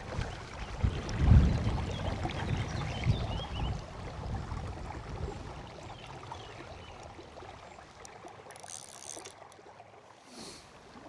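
Wind gusting on the microphone over the steady rush of a river. The gusts are strongest in the first couple of seconds and ease off.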